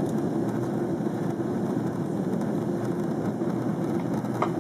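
Steady jet engine and airflow noise heard inside an airliner cabin, an even low rumble with no change in level.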